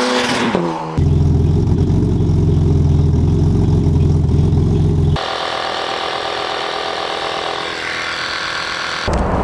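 Turbocharged BMW E30 325iS M20 straight-six: a brief falling engine note as the car goes by, then the exhaust idling with a deep, steady note for about four seconds. Past the halfway mark the sound changes to a quieter, steady mechanical whine of a small tire-inflator compressor at the rear wheel.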